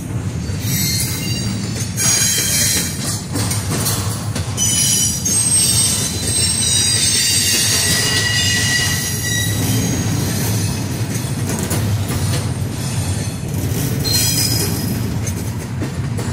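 Double-stack intermodal container well cars of a freight train rolling past with a steady low rumble. High, thin wheel squeals come and go over it, strongest around the middle.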